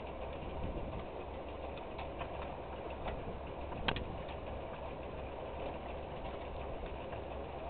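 Tractor engine idling steadily under a low wind rumble, with one sharp click about four seconds in.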